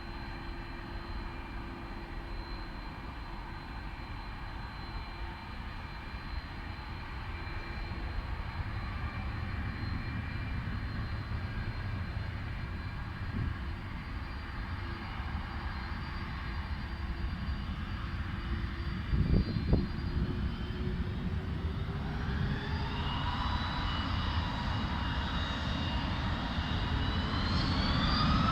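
Airbus A330-200 jet engines running with a steady whine, then from about 21 seconds in spooling up, the whine rising in pitch and growing louder as take-off thrust comes on. A brief low thump about 19 seconds in.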